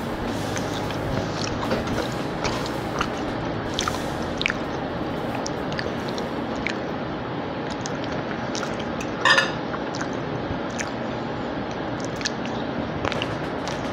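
Close-miked wet chewing and mouth sounds of someone eating soft food, with many small clicks and smacks and one louder wet smack about nine seconds in.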